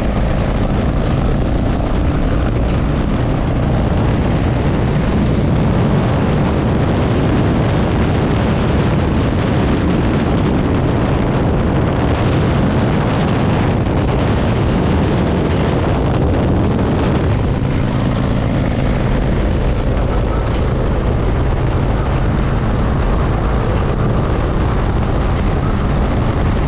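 Harley-Davidson V-twin motorcycle engine running steadily at cruising speed, with a loud even rush of wind and road noise over it.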